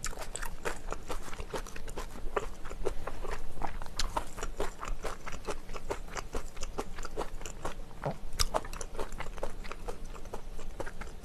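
Close-miked mukbang eating: a person chewing and biting crunchy food, spicy chicken with kimchi, in a dense run of irregular crisp crunches and wet mouth clicks.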